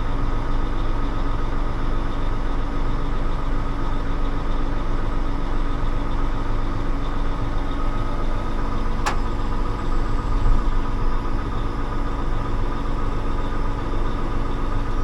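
Tractor engine running steadily at an even pitch, with a single sharp click about nine seconds in.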